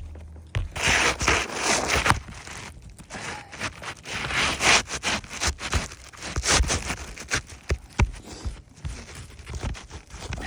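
A roofing shingle being cut to fit: rough scraping strokes in runs of a second or two, mixed with rustling and sharp knocks as the shingle is handled.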